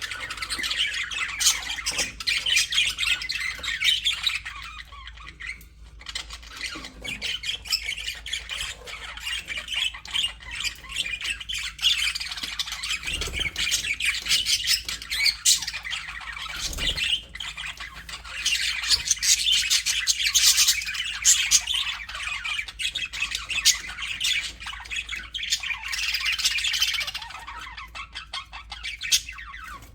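A flock of budgerigars chattering, chirping and warbling together in a steady, busy stream of calls, with a few sharper squawks.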